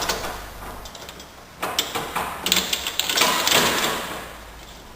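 Metal parts of a hook-mounted engine and gearbox support rattling and clattering in quick, irregular clicks and knocks as the unit is handled into place under the vehicle.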